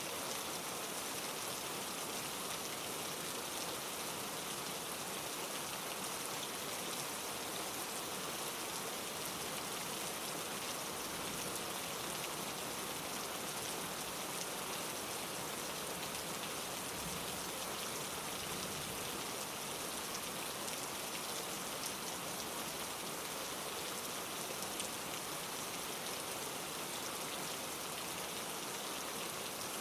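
Steady rain falling: an even, unbroken hiss of many drops, with no single drop or other sound standing out.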